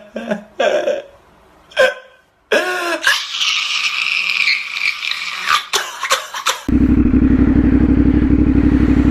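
Slip-on exhaust of a CFMOTO 450SS parallel-twin motorcycle running at a steady pace. It cuts in abruptly about two-thirds of the way in, after a stretch of short, unclear sounds and hiss.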